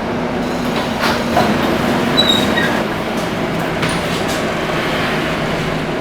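Cabin noise aboard a Scania K230UB city bus under way: the steady hum of the engine and road, with a few knocks and rattles and a brief high squeak about two seconds in.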